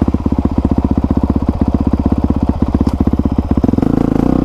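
A 2020 Honda CRF450R's single-cylinder four-stroke engine, just fired up, idles with an even, fast beat through its aftermarket exhaust. About three-quarters of the way in, the throttle opens and the engine note rises and smooths out.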